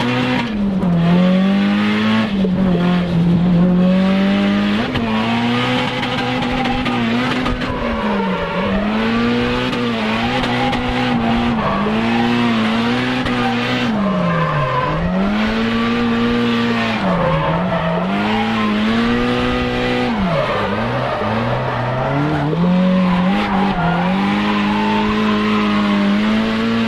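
Nissan Silvia S15 drift car's engine revving up and dropping back again and again as the car is driven through drifts, with tyres squealing.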